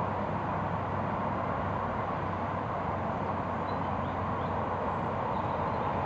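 Steady outdoor background rumble and hiss, with a few faint short bird chirps about halfway through.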